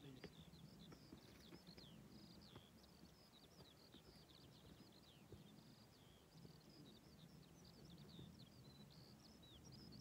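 Faint birdsong: an unbroken run of quick, high chirps and short trills from small birds.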